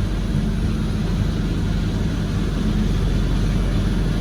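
Heavy diesel engine of logging equipment running steadily with a low drone.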